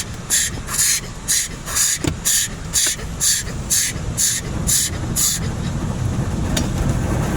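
High-pressure water jets of an automatic car wash spraying against the car, heard from inside it as rhythmic hissing pulses about two a second. The pulses stop about five and a half seconds in, leaving a steadier hiss.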